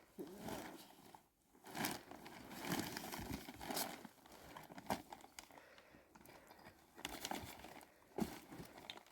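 Plastic sheeting crinkling and rustling as it is handled, in uneven bursts with a few sharper crackles.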